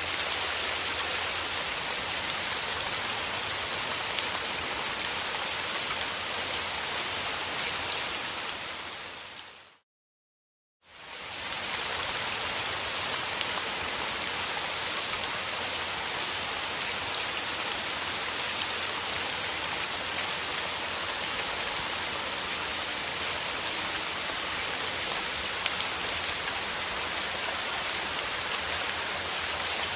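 Steady rain falling, an even hiss with fine scattered drop ticks. About nine seconds in it fades out to silence for about a second, then fades back in to the same steady rain.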